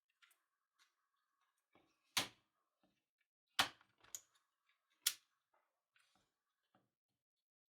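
Hard parts being handled and set down during reassembly of a hammer drill: four sharp clicks or knocks about two, three and a half, four and five seconds in, with faint small ticks between.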